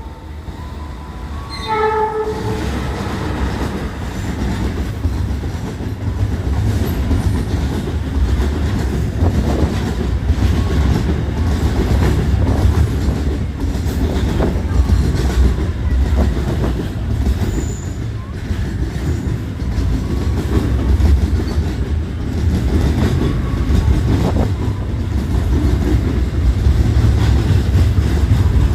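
Diesel locomotive hauling a freight train: a short horn blast about two seconds in, then a steady heavy rumble of the engine and wagon wheels clattering over the rail joints.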